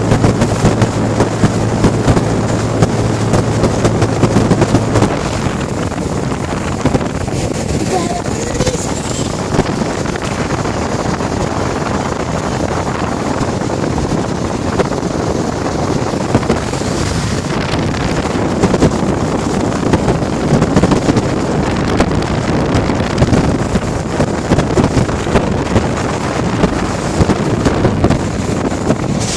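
Air conditioning units running, their fans giving a loud steady rush of air that buffets the microphone. A low hum stops about five seconds in.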